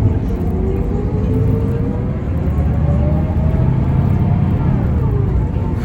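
Mercedes-Benz O405N2 city bus running under way, heard from inside: a steady low engine drone with a drivetrain whine that rises in pitch for several seconds as the bus accelerates, then falls away near the end.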